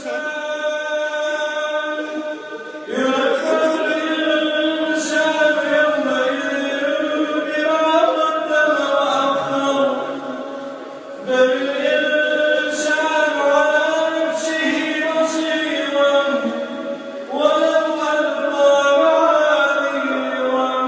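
A solo voice chanting Quran recitation in a melodic, ornamented style: long held notes that glide between pitches, in phrases broken by brief pauses for breath about three, eleven and seventeen seconds in.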